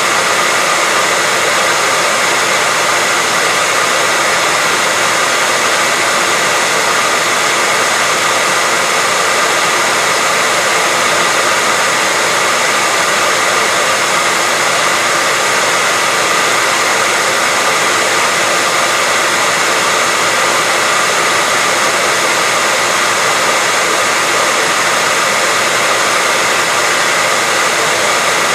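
Electric hair dryer running steadily: a loud, even blowing hiss with a faint steady whine, no change in speed.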